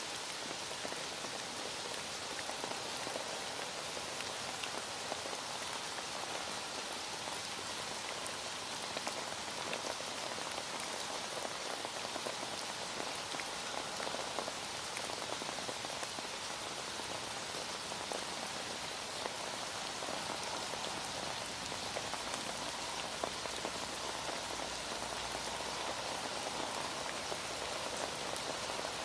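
Heavy rain falling steadily, with a dense patter of drops on a surface.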